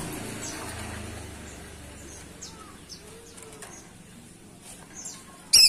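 Woodpecker calls: a few faint, short, high chirps over a low background hiss, then near the end a loud, rapid series of sharp calls breaks in.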